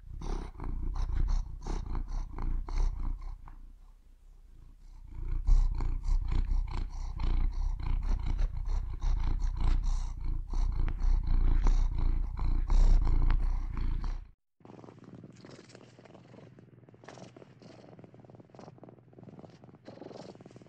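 A domestic cat purring loudly and close up, with a coarse, fast pulsing rumble. About fourteen seconds in it cuts off suddenly and a fainter purr carries on.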